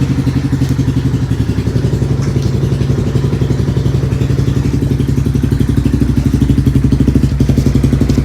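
1999 Yamaha Wolverine 350 ATV's single-cylinder four-stroke engine idling steadily through a DG aftermarket exhaust with the baffles removed, its pulsing beat getting a little louder about halfway through.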